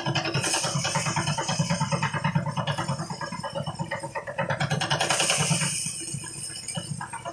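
Engine-driven rice thresher running, its small engine pulsing fast and steady, with two spells of louder hissing, about half a second in and again about five seconds in. The sound eases off near the end.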